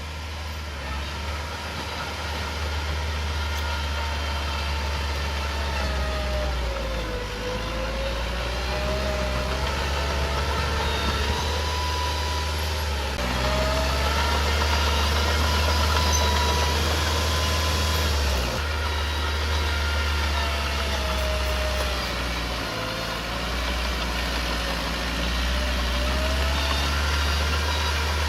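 Small Komatsu crawler bulldozer's diesel engine running under changing load, its pitch sagging and recovering several times, with a slight rise in loudness about halfway through.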